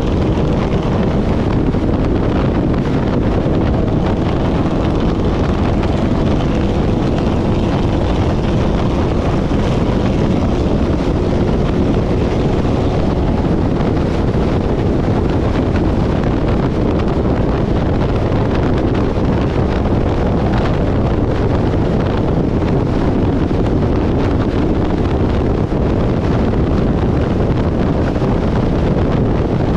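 Steady vehicle noise with wind rushing over the microphone, a faint engine hum early on.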